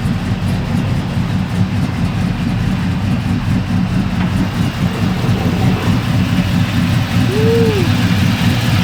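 GM LS V8 with 243 heads and a chopper cam idling with a choppy, lumpy lope.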